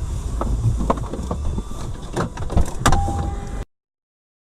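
Car interior sound picked up by a dashcam: a steady low rumble of the car on the road, with several sharp knocks and clicks and a brief steady tone near the end. The sound then cuts off abruptly to silence.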